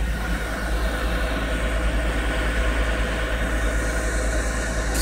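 Honda Accord engine idling steadily, with the heater blower running on max for defrost.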